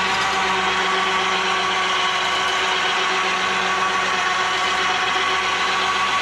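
A power tool's motor running steadily under load at a constant pitch.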